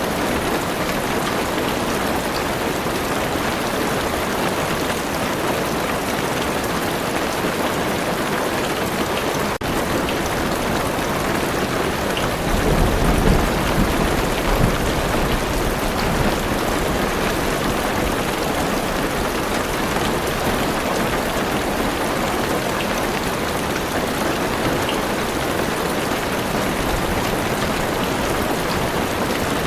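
Heavy rain falling steadily on a car's roof and windows, heard from inside the car. About halfway through, a low roll of thunder swells for a few seconds and then fades back into the rain.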